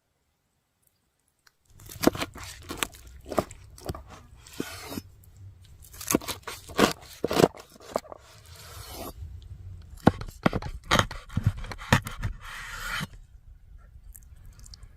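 Close-up handling noise: after near silence, irregular sharp knocks and clicks start about two seconds in, mixed with short bursts of scraping, crunching and tearing, easing off near the end.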